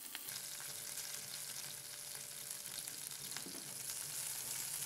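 Slit green chillies, bay leaves and whole spices sizzling steadily in hot oil in a frying pan, with a few faint ticks of spices crackling.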